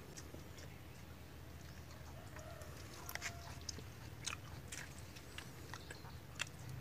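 Quiet eating sounds: chewing with scattered small clicks and smacks, sparse at first and more frequent from about halfway in.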